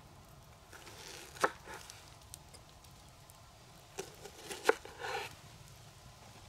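Two sharp knocks or snaps, about three seconds apart, each with a brief rustle, over quiet outdoor background.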